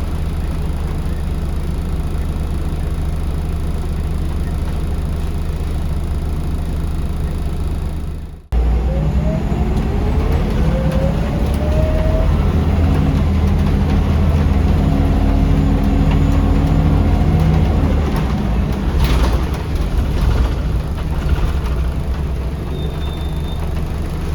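Scania L94UB bus's diesel engine running steadily with road noise heard from inside the bus. About a third of the way in the sound cuts, and then a whine rises in pitch as the bus accelerates, followed by a brief knock later on.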